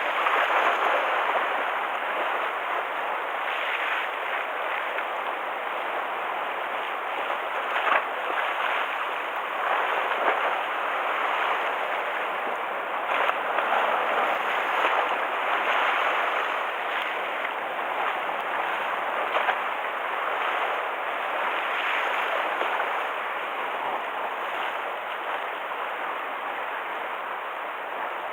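Sea waves washing and splashing against the shore: a steady rushing that swells every few seconds.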